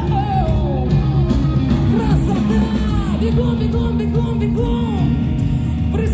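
Live rock band playing loudly with guitar, bass and drums while a woman sings the melody, heard from the concert hall floor.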